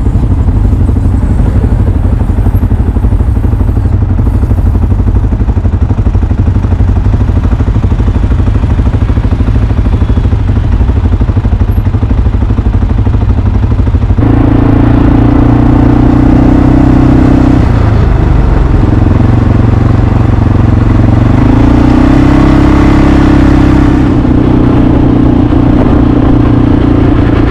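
ATV engine running while riding, loud, with a rattly rumble for the first half. About halfway in the engine note turns into a steadier hum that shifts up and down in pitch.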